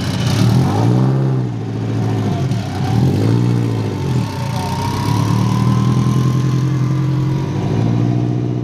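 Race car engine idling, blipped a few times so the revs rise and fall over the first four seconds, then settling into a steady idle.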